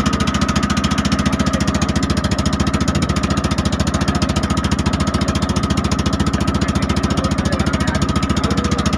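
Boat engine running steadily with a rapid, even beat.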